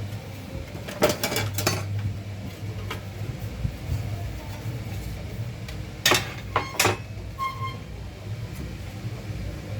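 A few sharp clicks and clinks of small parts or tools being handled, over a steady low electrical hum, with one short electronic beep, typical of a weighing scale's key beep, about seven and a half seconds in.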